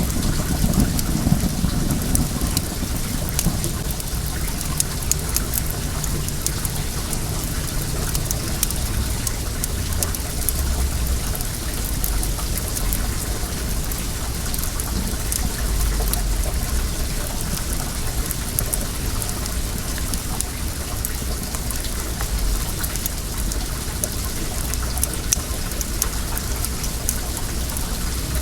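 Wood bonfire crackling with many small pops over the steady rush of flowing well water, with a low rumble underneath.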